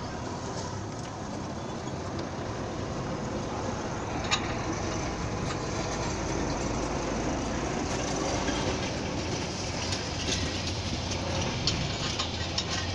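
A steady low mechanical rumble with a few sharp metallic clinks, the loudest about four seconds in.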